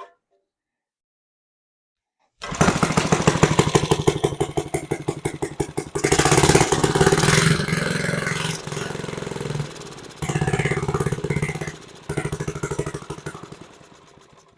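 Small gasoline engine of an old Sears reel mower firing up about two seconds in, on choke after long disuse. It runs rough and uneven, surging up and down and almost stalling twice, then fades and dies near the end.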